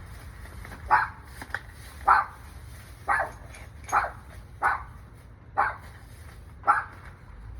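A dog barking repeatedly, seven barks about a second apart.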